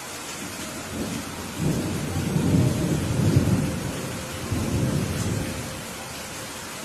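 Steady rain with a roll of thunder that builds about a second in, is loudest around the middle and fades out before the end.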